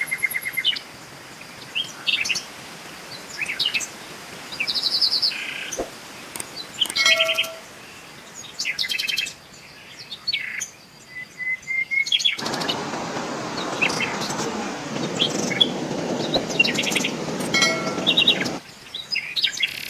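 Songbirds chirping and calling, with many short chirps and rapid trills. From about twelve seconds in, a steady hiss joins them for about six seconds, then cuts off suddenly.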